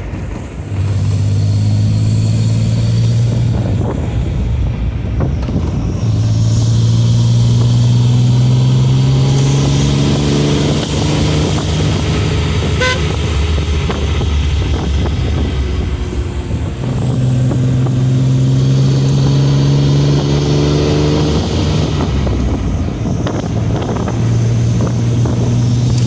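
The straight-six engine of a 1965 Austin-Healey 3000 pulling under load as the car accelerates. Its pitch climbs in several long runs and drops back between them as it changes up through the gears, over steady wind and road noise.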